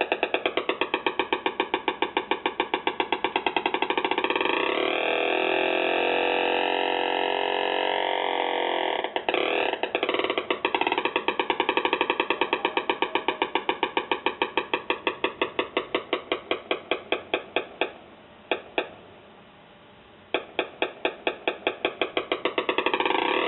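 Theremin played through a speaker: one electronic tone pulsing rapidly on and off while its pitch glides down and wobbles. It cuts out briefly about three-quarters of the way through, then comes back pulsing.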